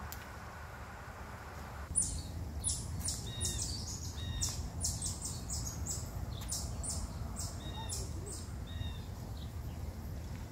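Wild birds chirping in quick, high-pitched notes from about two seconds in, over a steady low rumble.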